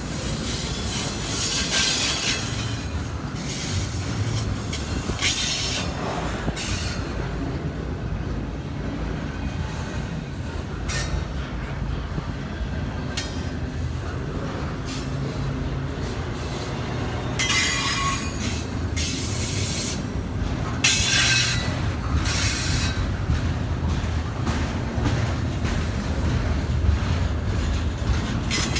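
Freight train cars rolling past with a steady low rumble, the wheels squealing on and off, loudest near the start and again about two-thirds of the way through.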